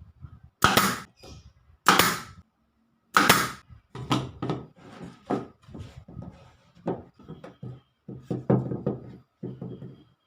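Wooden knocks while working pallet wood: three loud strikes about a second and a half apart, then a run of smaller, irregular knocks and clatter.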